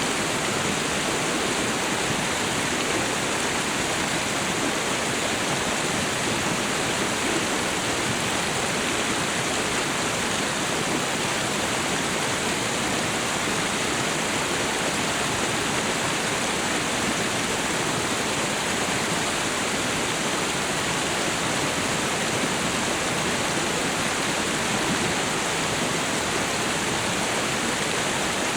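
Waterfall and river water rushing in a steady, even roar.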